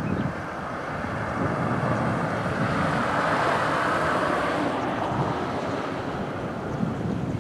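Wind buffeting the microphone over a steady rushing noise, which swells to its loudest around the middle and then eases.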